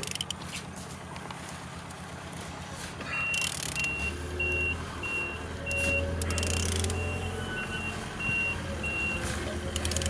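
Mercedes OM646 four-cylinder diesel engine running steadily at idle, in good running order. A short electronic warning beep repeats about twice a second from about three seconds in until near the end.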